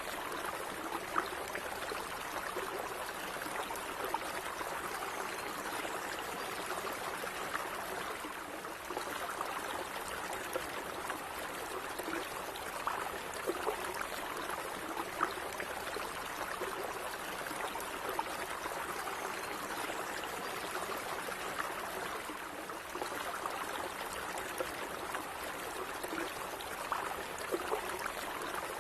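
Small stream of water running steadily, with light trickling and bubbling over stones.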